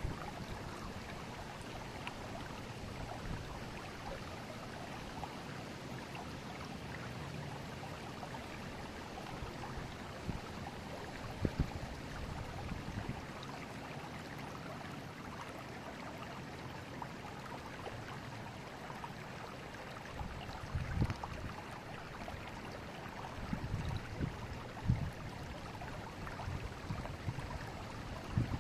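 Forest river water flowing steadily over its bed, an even rushing and gurgling, with a few brief low bumps about a third of the way in and again near the end.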